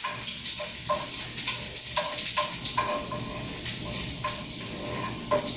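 Chopped garlic sizzling and crackling in hot olive oil in a frying pan, with the spatula clinking against the pan a dozen or so times.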